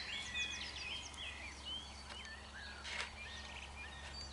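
Birds chirping: many short, high chirps overlapping, with a single click about three seconds in and a steady low background hum.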